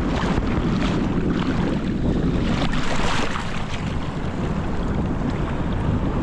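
Wind buffeting the microphone over ocean surf washing up on the beach, the wash swelling about three seconds in.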